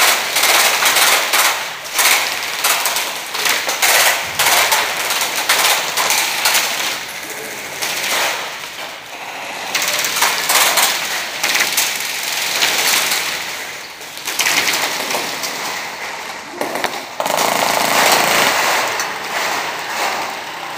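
Airsoft guns firing in rapid bursts, long runs of quick shots with short lulls between them.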